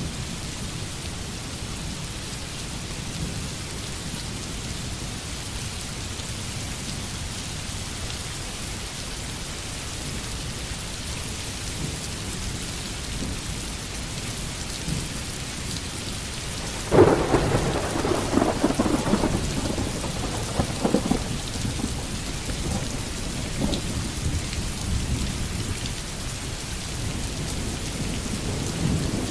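Steady rain with a low rumble of thunder; about 17 seconds in, a sudden loud thunderclap cracks and rolls away for several seconds.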